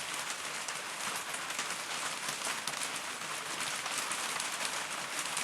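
Steady hiss of heavy rain mixed with hail, dotted with many small sharp ticks of drops and hailstones striking.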